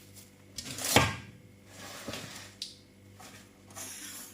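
A few sharp knocks on a hard surface, the loudest about a second in, followed by fainter clicks.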